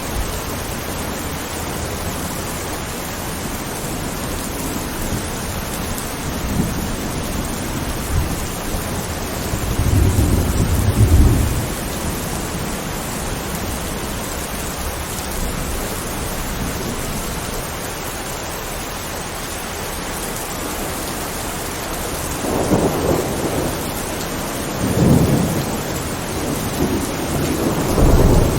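Steady rain falling during a thunderstorm, with rolls of thunder rumbling in about four times, the strongest around ten seconds in and another right at the end.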